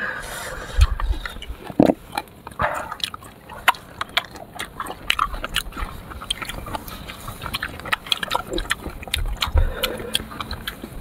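Close-up eating sounds of sour fruit: irregular crisp bites and crunches with wet chewing and lip smacks, and a couple of short murmurs about two and three seconds in.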